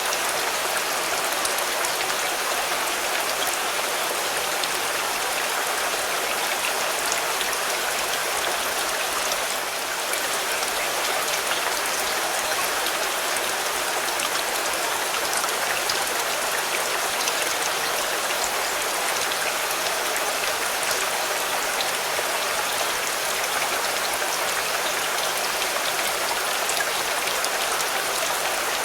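Steady rain falling on a car: a dense, even hiss of countless drops with many small sharp ticks from drops striking the body.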